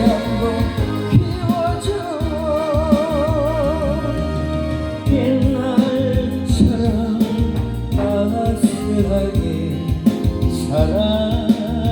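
Korean popular song playing: a singer holds long notes with vibrato over instrumental backing, with a long wavering held note about two to four seconds in.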